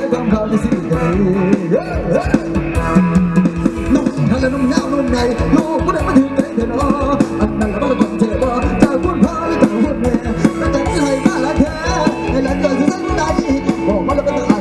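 Mor lam sing band music: a fast, steady drum beat under bending melodic lead lines.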